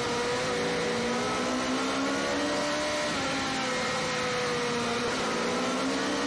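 Sport bike engine running at high revs under steady throttle, its pitch sagging a little and climbing again near the end, with wind rush over it.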